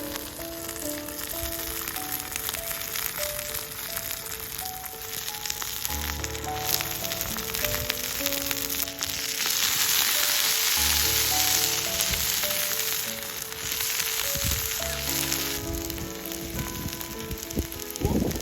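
Food frying and sizzling in a hot pan. It grows much louder from about nine seconds in until about fifteen seconds.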